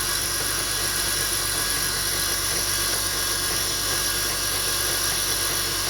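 2002 BMW 325i inline-six idling steadily with a growling noise from the engine compartment that goes away when the engine is revved; the mechanic has ruled out the alternator, idler pulleys and AC compressor as its cause.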